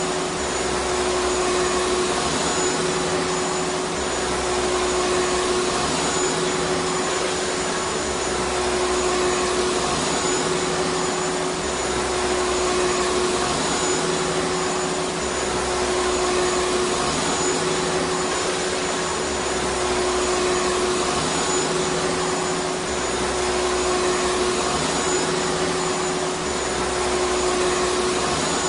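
Vacuum cleaner running continuously: a steady whooshing whir with a strong, even hum, and a low rumble that swells and fades about every two seconds.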